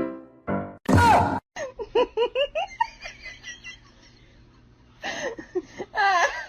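Short, quick bursts of laughter, about four a second, in two spells with a pause between them, after a short high cry with a gliding pitch.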